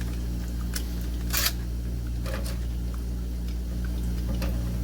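A few sharp metal clicks and scrapes, the loudest about a second and a half in, as a wrench tightens an electric water heater's heating element into the tank, over a steady low hum.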